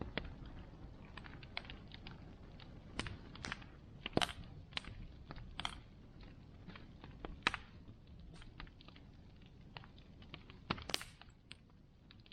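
Wood bonfire crackling: irregular sharp pops and snaps of burning wood over a low, steady rush of the flames, the loudest pops about four, seven and eleven seconds in.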